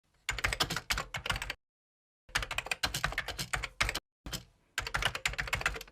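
Rapid clicking of keys being typed, in three bursts of about a second and a half each with abrupt silent gaps between.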